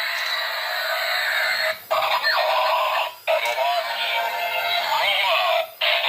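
Tinny electronic music and sound effects from a JunSheng Phantom Motorcycle toy's small speaker. The sound plays in short clips separated by brief gaps, about two, three and five and a half seconds in, with sliding electronic tones in between.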